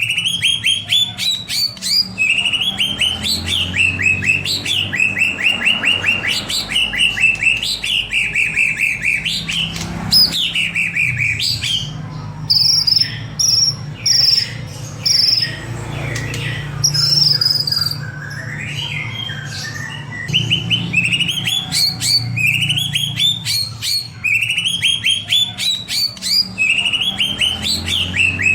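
White-rumped shama (murai batu) song on a lure recording: repeated runs of rapid chirps that sweep upward in pitch, with a stretch of short, high whistled notes about halfway through. A steady low hum runs underneath.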